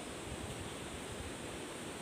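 Steady forest ambience: an even rushing hiss with no distinct events.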